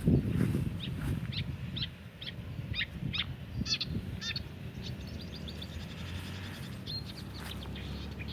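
A wild bird calling a run of about ten short, repeated high notes, roughly three a second, then fainter scattered calls, over a steady low rumble.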